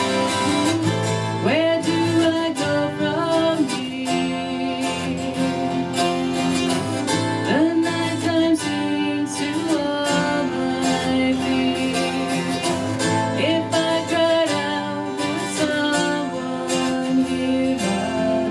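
Live acoustic song: acoustic guitar strummed and picked, with a singing voice that slides between notes over it.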